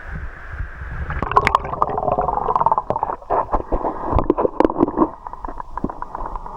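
Water splashing and gurgling around a swimmer, with many irregular sharp splashes and knocks starting about a second in over a low rumble.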